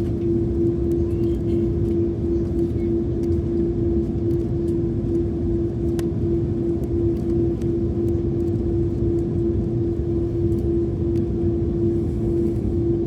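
Airliner cabin noise heard from inside the cabin: the jet engines and airflow make a steady low rumble with one prominent unchanging hum.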